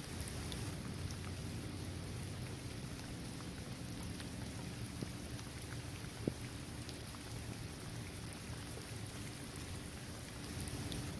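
Steady rain falling on a basketball court, trees and grass, with scattered drops ticking and one sharper drop about six seconds in.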